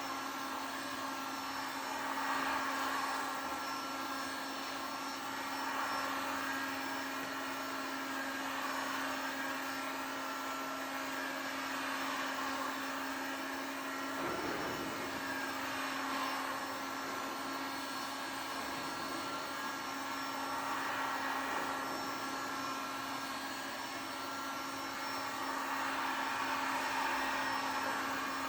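Electric heat gun running steadily, its fan blowing with a constant motor hum, heating hot-applied glue to bond a rubber strake to an inflatable boat.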